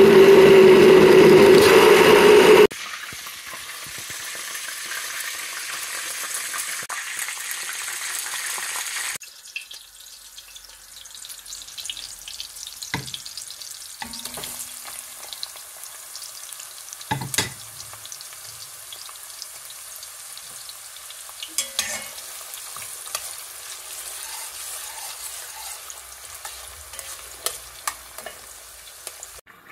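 An electric blender runs loudly for the first three seconds or so, puréeing tomatoes, then stops abruptly. After that, food sizzles as it fries in hot oil in a pot, louder for several seconds and then settling, with a few sharp knocks and scrapes of a spoon stirring it.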